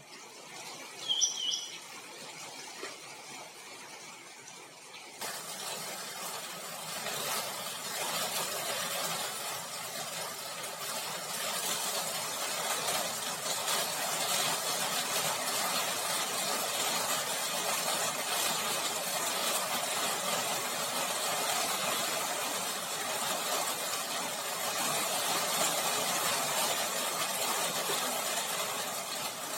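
A single short bird chirp, then a steady rushing noise sets in about five seconds in and keeps going.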